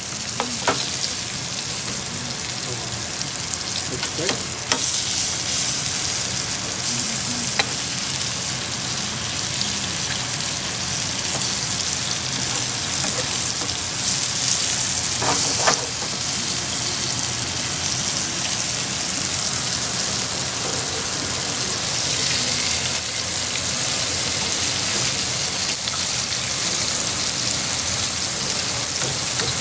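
Flour-coated pieces of grouse and rabbit sizzling steadily as they fry in vegetable oil, with a few short clicks and scrapes of a spatula turning them in the pan.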